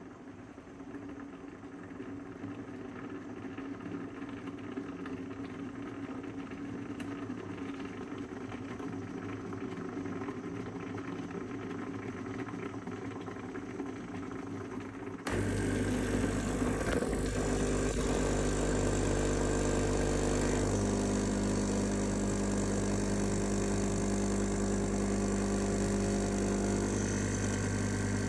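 A coffee machine running off a battery inverter: a quiet, steady hum slowly grows louder, then about halfway through the pump cuts in suddenly with a loud, steady, low buzzing hum that holds to the end.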